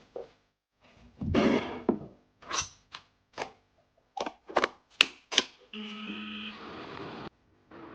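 A brief scraping or rubbing sound, then a run of about nine short, sharp knocks or taps, as of objects set down or struck. Near the end comes a steady hum with a few fixed tones lasting about a second and a half.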